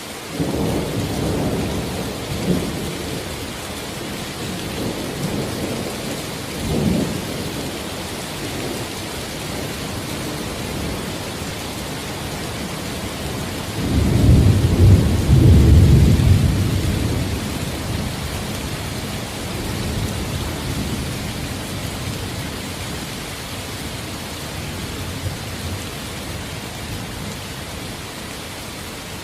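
Steady rain falling, with low rolling thunder rumbling several times; the loudest, longest rumble comes about halfway through and lasts a few seconds.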